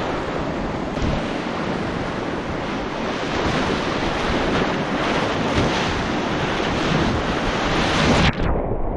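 Loud rushing of a fast river running at high water, with wind buffeting the microphone. Near the end the sound turns abruptly duller and muffled.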